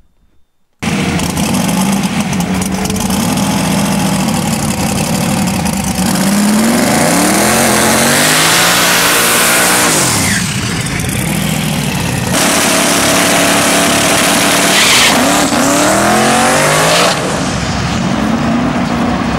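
Alan Johnson 481X billet V8 in a Nissan Skyline drag car, running loud at high revs, its pitch climbing in several rising sweeps during a shakedown run. The sound starts abruptly about a second in and jumps a couple of times as clips are cut together.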